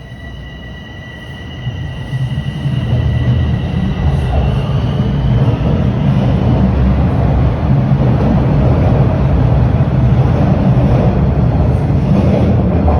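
A TTC Line 4 subway train rumbles loudly along the platform, building over the first couple of seconds and holding steady. A high steady whine from the train fades out about four seconds in.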